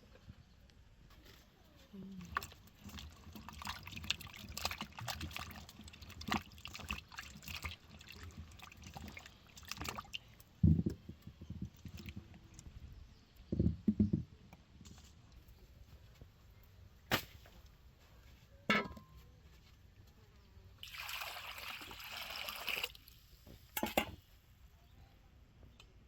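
Water splashing and trickling amid irregular clicks, knocks and a few heavier thuds. About two seconds of steady pouring come near the end.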